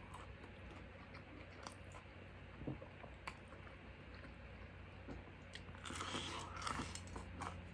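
A person chewing a crispy breaded fried chicken tender, with faint wet mouth clicks, then biting into it again about six seconds in with a short spell of crunching.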